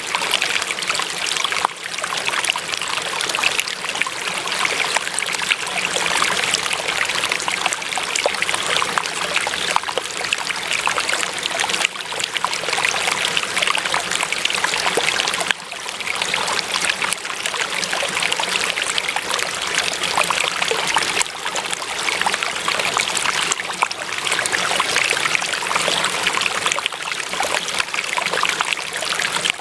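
Running water from a small stream, a steady trickling and babbling.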